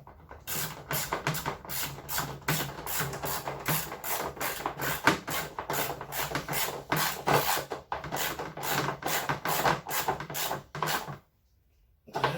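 Hand ratchet wrench worked in quick back-and-forth strokes, about three a second, with a rasping click on each swing as a bolt is run in; it stops about eleven seconds in.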